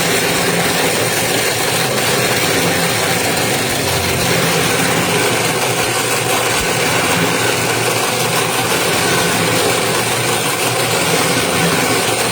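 Toroidal transformer winding machine running steadily, its motor giving an even, unbroken hum.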